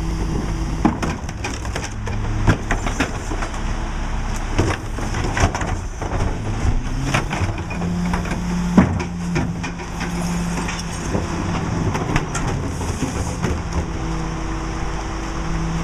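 McNeilus rear-load garbage truck's packer compacting a load of trash, with repeated cracking and snapping as the refuse is crushed, over the steady running of the Mack truck's diesel engine. A hum comes in about halfway through and again near the end.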